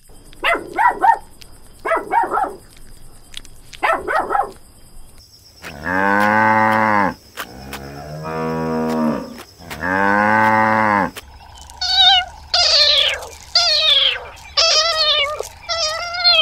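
Cattle mooing: three long, low moos, one after another. Before them come short animal calls in quick groups of two or three, and after them a run of high, quavering bleats, likely goats.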